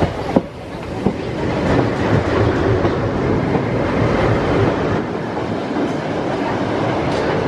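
Indian Railways diesel locomotive passing close on the next track, followed by passenger coaches rattling and clattering by, heard from a moving train with its own wheels clattering. A sharp knock comes about half a second in.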